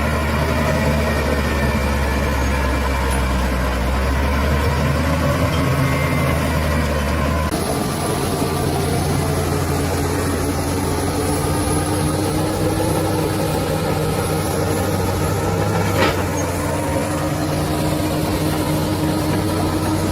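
Bulldozer's heavy diesel engine running steadily. Its tone shifts abruptly about seven and a half seconds in, and a single sharp click comes near the end.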